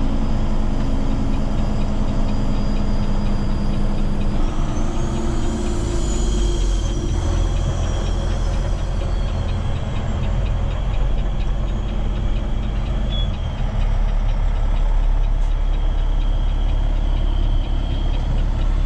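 Heavy rotator tow truck's diesel engine running with road noise as a steady low drone inside the cab, growing heavier in the low end about four seconds in.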